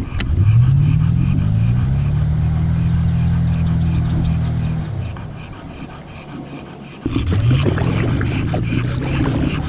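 A car engine revving up quickly and held at high revs for several seconds, then dropping away, and revving up and holding again about seven seconds in: a driver doing burnouts.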